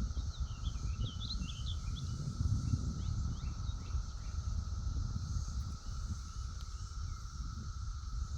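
Outdoor ambience: a steady insect drone, with short bird chirps through roughly the first three seconds, over a low rumble, probably wind on the microphone.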